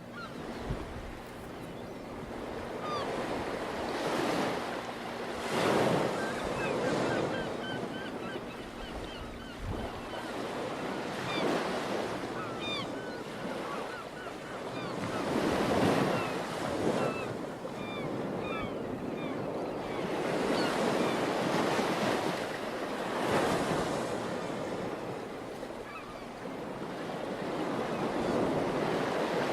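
Ocean surf breaking on a beach, swelling and fading every few seconds, with wind buffeting the microphone. Scattered short, high bird calls sound faintly over the waves.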